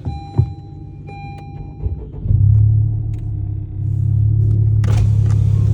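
Car engine running with a loud, steady low rumble that comes in about two seconds in, after a quieter stretch. Road and wind hiss joins near the end.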